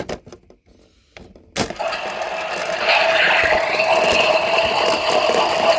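A click about a second and a half in, then a battery-powered toy washing machine running with a loud, steady whirring noise.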